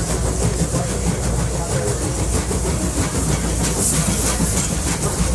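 Passenger train running along the rails, heard from inside a car: a steady low rumble with a light rattling of wheels on track.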